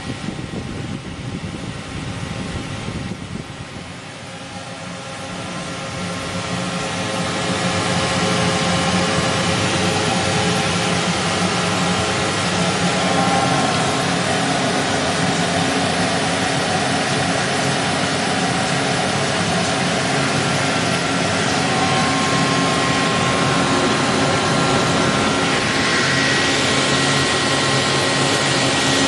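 Emco Turn 220 CNC lathe running: a mechanical hum with several steady whining tones that grows louder over a few seconds about 4 seconds in, then holds steady.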